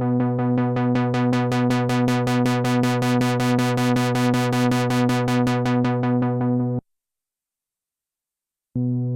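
Sequential analog polysynth holding one low note with a fast, even pulsing. Its tone brightens and then dulls again as the filter opens and closes. It stops sharply about seven seconds in and starts again just before the end.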